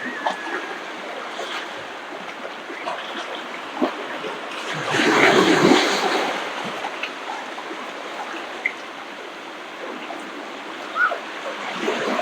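Ocean surf washing on a beach. One wave breaks louder about five seconds in and then fades back into the steady wash.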